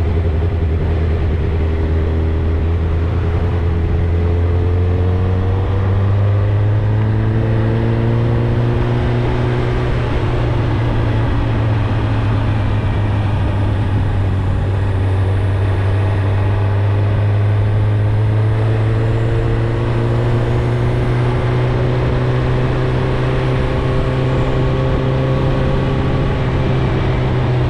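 Suzuki GSX-R1000 inline-four on its original exhaust, running steadily under load while being ridden, its pitch rising slowly twice as the bike gently picks up speed in gear.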